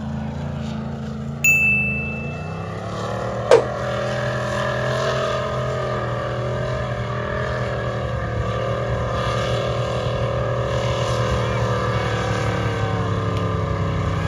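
Off-road 4x4 engine running steadily with an even hum. A short ringing ding comes about a second and a half in, and a sharp knock about two seconds later.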